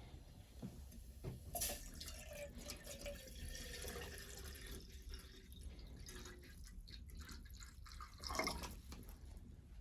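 Water dripping and trickling, with many small clicks and knocks; a louder cluster of clicks comes about eight seconds in.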